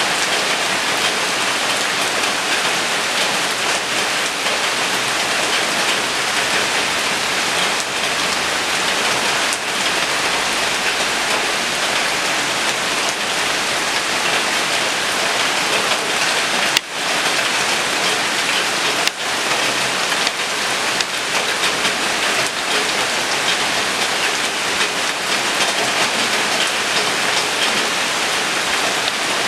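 Steady rain falling on surfaces: a dense, even hiss, broken by two brief dips a little past halfway.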